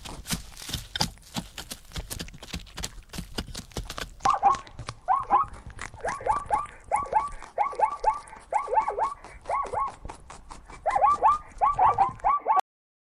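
Zebra calling in a quick series of short, yelping barks, grouped in twos and threes, which cuts off abruptly near the end. Before the calls start, about four seconds in, there is a dense clatter of clicks and knocks.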